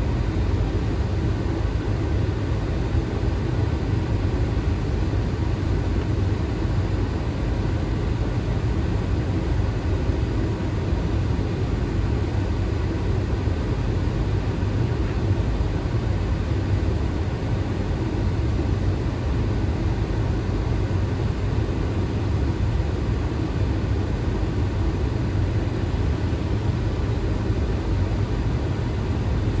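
Steady airflow and engine noise inside a Boeing 737's flight deck on final approach, an even low noise that holds without change.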